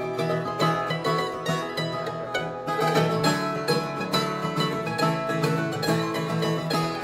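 Live acoustic band music: plucked string instruments playing a quick run of picked notes over steady chords.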